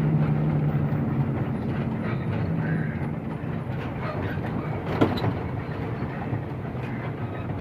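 Truck running on the road: a steady low engine hum that eases off about three seconds in, with scattered rattles and a knock about five seconds in.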